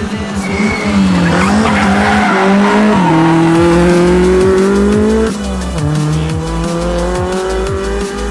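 Rally car engine accelerating hard under load, its pitch climbing and then dropping sharply at upshifts about three and about five seconds in.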